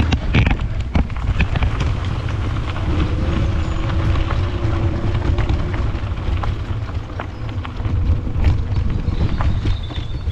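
Strong wind buffeting the microphone in a heavy, steady low rumble, with scattered clicks and knocks and a faint steady hum through the middle seconds.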